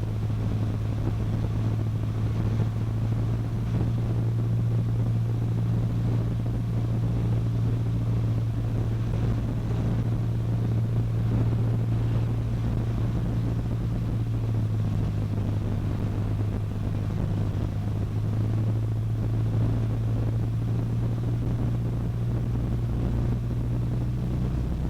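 Cessna 152's four-cylinder Lycoming O-235 engine and propeller heard from inside the cockpit as a steady low drone, holding an even power setting with no change in pitch or level.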